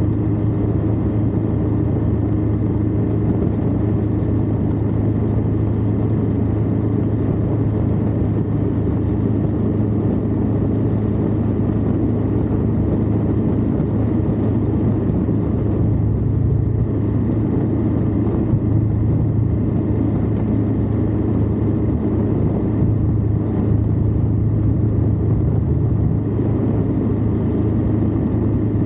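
Indian Scout motorcycle's V-twin engine running at a steady cruising speed, heard close up from the lower crash bar, with wind and road noise mixed in.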